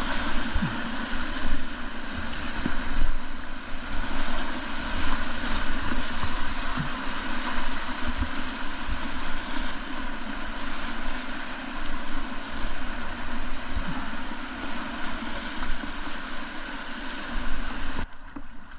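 Rushing whitewater of a river rapid, a steady dense noise with wind buffeting the microphone in low thumps; it drops away suddenly near the end.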